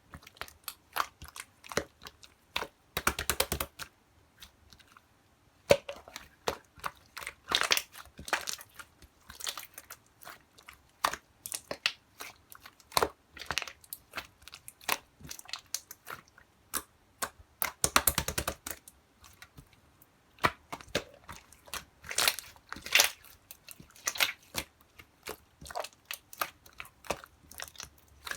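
Translucent slime being squished, poked and folded by hand, giving irregular sticky clicks and pops. Twice, about 3 seconds in and about 18 seconds in, there is a short run of rapid crackling pops as trapped air bubbles burst.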